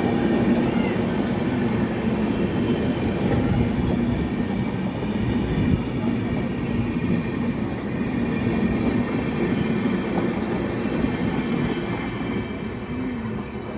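Indian Railways express train running on the rails, a steady loud rumble with some ringing tones, easing off a little near the end.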